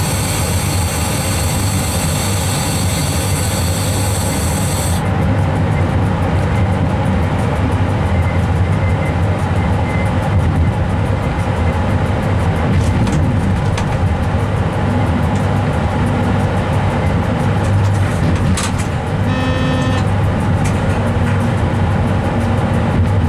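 A train running on the rails, heard from inside the driver's cab: a steady low rumble of wheels and running gear. A high-pitched whine cuts off suddenly about five seconds in, and a brief higher tone sounds about three-quarters of the way through.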